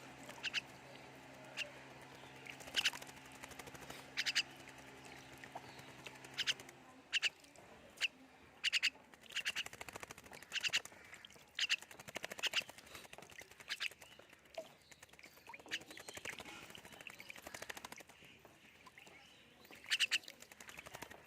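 Pet myna giving short, harsh calls, one after another at irregular intervals. A steady low hum runs underneath for the first few seconds and then stops.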